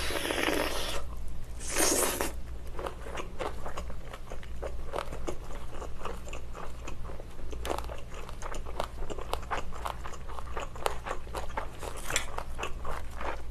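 A person biting into a chicken and green-onion skewer and chewing it: two louder bites in the first two seconds, then chewing with many small clicks, and one more louder sound near the end.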